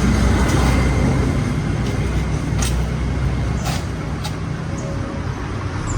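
An engine running steadily, a low hum under a noisy wash that slowly gets quieter, with a few light clicks.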